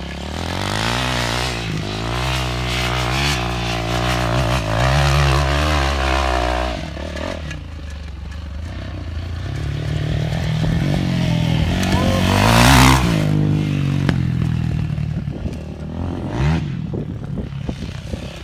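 Dirt bike engines revving up and down through the gears. One bike runs hard for the first several seconds and drops away; another builds to its loudest about thirteen seconds in, then fades.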